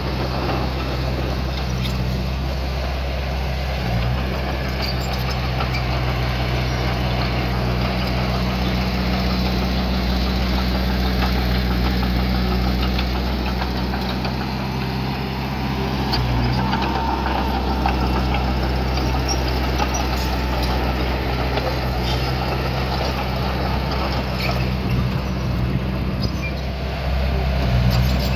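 Diesel engine of earthmoving machinery running steadily, with its note shifting briefly a few times.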